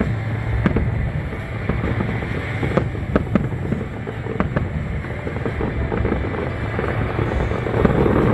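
Fireworks going off: scattered sharp cracks, several close together in the middle, over a continuous low noise.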